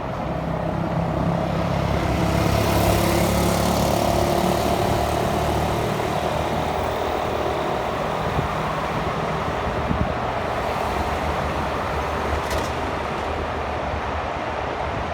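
Road traffic heard from a moving bicycle: a motor vehicle passing close, its engine hum swelling over the first few seconds and then giving way to a steady rush of traffic and road noise. A brief click about twelve seconds in.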